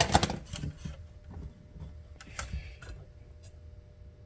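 A light being repositioned by hand: a quick cluster of clicks and knocks about the first second, then a few faint scattered clicks.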